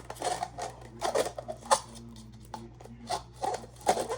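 Costume jewelry being handled: irregular clicks, clinks and rubbing as a bracelet's pieces knock and slide against each other.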